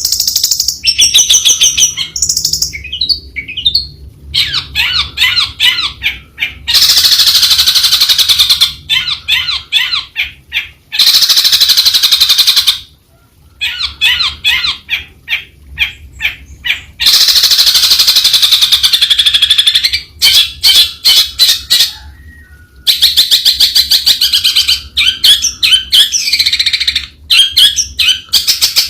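Long-tailed shrike singing a long, varied song: quick runs of repeated chirping notes alternating with harsher, scratchy phrases, with brief pauses between phrases.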